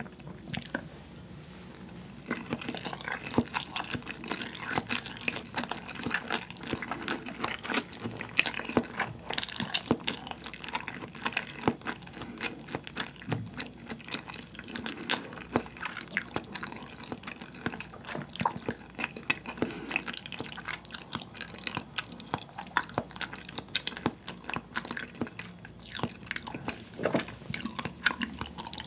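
Close-miked chewing of soy-sauce-cured salmon sashimi with rice: a steady run of wet smacking and squishing clicks from the mouth, starting about two seconds in. The salmon is firm and chewy from curing in soy sauce, not soft like fresh salmon.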